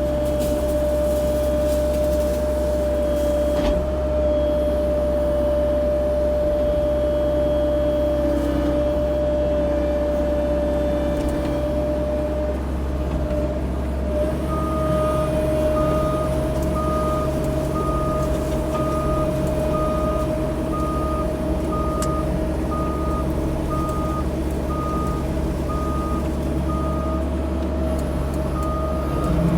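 CAT 304 E2 mini excavator running steadily, its engine and hydraulics giving a steady hum. About halfway through its travel alarm starts beeping regularly, somewhat under twice a second, as the machine tracks.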